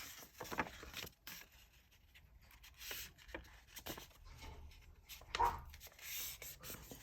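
Sheets of printed paper being handled and shuffled: soft rustling with a few light taps and clicks.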